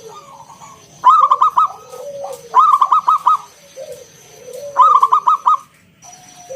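Zebra dove (perkutut) cooing. Three loud bursts of quick staccato coo notes, each about half a second long, come with softer, lower arching coos in between.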